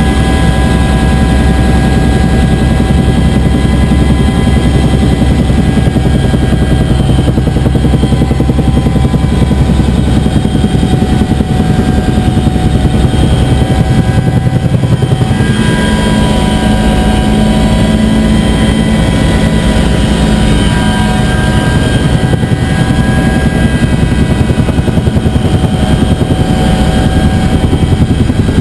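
Bell UH-1 Huey helicopter running steadily, its turbine and rotor loud and unbroken. The mix of its tones shifts a little about halfway through.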